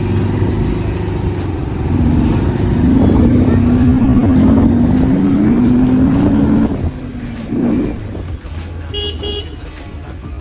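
Street traffic with a running engine and a voice over it, then two short horn toots near the end.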